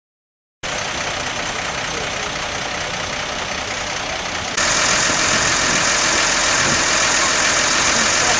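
Tractor engines running, heard as a dense, noisy din that starts abruptly and gets louder about four and a half seconds in.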